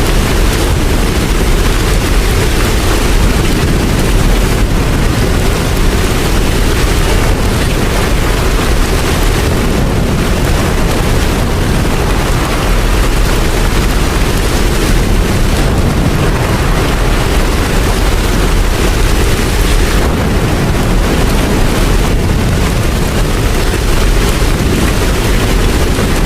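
Rain falling steadily: a dense, even hiss with a deep rumble underneath, unchanging throughout.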